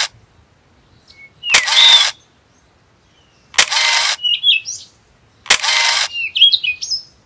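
Birds chirping and whistling, with a loud harsh hissing rasp about half a second long repeating roughly every two seconds.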